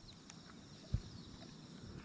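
A single short, dull thump about a second in, over a faint outdoor background.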